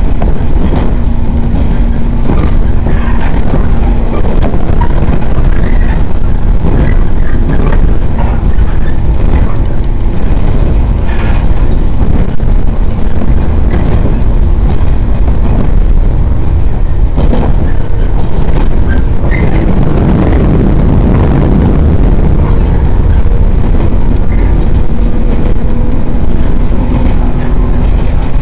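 Running noise heard inside a JR 115-series electric multiple unit under way: a loud, steady low rumble of wheels on rail, with a faint motor hum and a few sharp knocks from the track.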